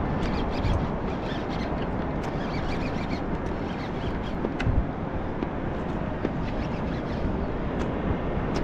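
Steady rushing of wind and water around a kayak, with scattered small clicks and knocks of handling on the boat.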